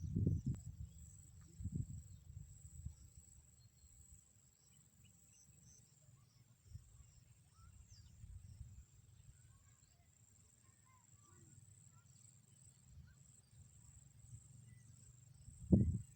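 Quiet outdoor ambience with a steady high insect trill, likely crickets. There are low rumbling thumps in the first few seconds, and a single sharper low thump near the end.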